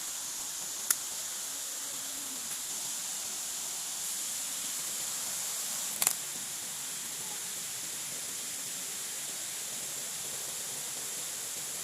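Steady high-pitched chorus of forest insects such as cicadas, a constant shrill hiss, with two sharp clicks, one about a second in and another about six seconds in.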